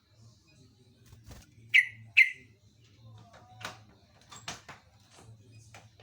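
Trucuk (jogjog) bulbul calling. Two loud, short notes falling in pitch come close together about two seconds in, followed by a run of quieter sharp chirps.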